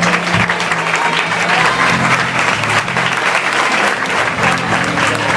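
Audience applauding, a dense steady clapping, while live band music goes on underneath with sustained low notes.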